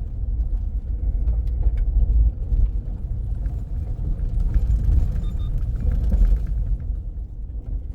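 Car driving along a village road: a steady low rumble of road noise and engine, with faint scattered rattles and clicks.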